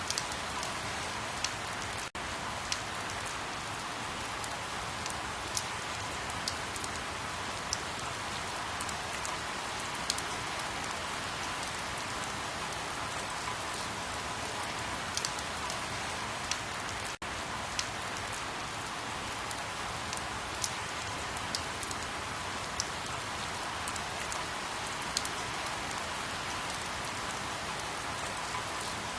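Steady rain, an even hiss with scattered sharp drop ticks on a surface. It dips out for an instant twice.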